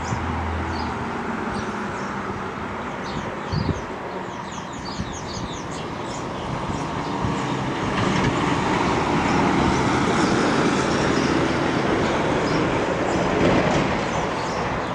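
Norfolk Southern diesel freight locomotive running on the track, its engine note and rail noise steady, growing louder about eight seconds in and easing slightly near the end.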